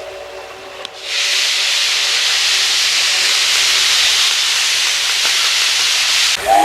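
Steam locomotive (the SL Ginga's C58) venting steam: a loud, steady hiss starts about a second in and cuts off sharply about five seconds later. Its steam whistle then sounds right at the end, several tones together that slide up into a chord.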